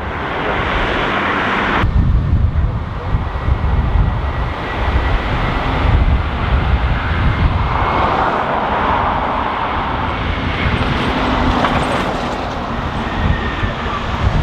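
Airbus A320's CFM56 jet engines running as it comes in to land, with a faint steady whine. Gusty wind rumbles heavily on the microphone, starting abruptly about two seconds in.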